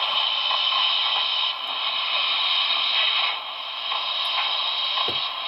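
Steady steam hiss from the onboard sound decoder of an HO-scale Broadway Limited Paragon 4 Milwaukee S3 4-8-4 steam locomotive, played through its small speaker as the model crawls at its first speed step, with no chuffing yet at this low speed.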